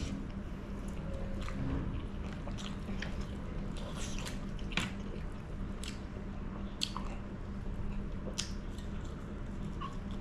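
Close-miked eating sounds of a person chewing chicken curry and bamboo shoot by mouth: wet chewing with scattered sharp smacks and clicks. A steady low hum runs underneath.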